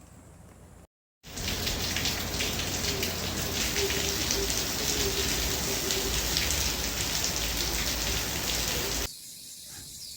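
Heavy rain pattering on a surface. It starts abruptly about a second in and cuts off suddenly near the end.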